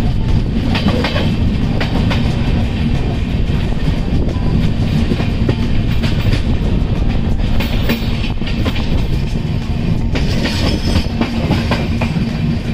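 Passenger train running on the track: a loud, steady rumble with the clickety-clack of wheels over rail joints and scattered knocks.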